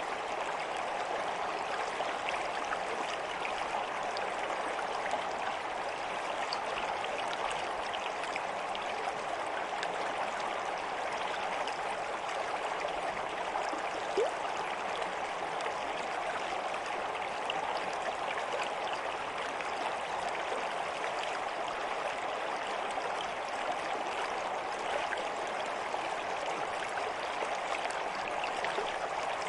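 Water in a stream flowing steadily, a continuous babbling rush with small splashes and trickles, and a single soft plop about fourteen seconds in.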